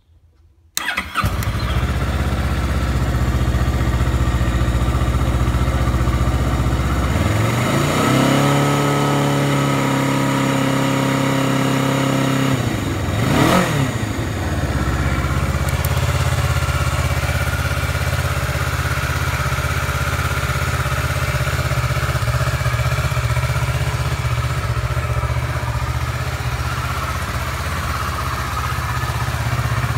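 2013 Kawasaki Ninja 650 (EX650E) parallel-twin engine starting about a second in and idling. It is revved up and held at a steady higher speed for about five seconds, drops back, gets one quick rev blip, then idles steadily.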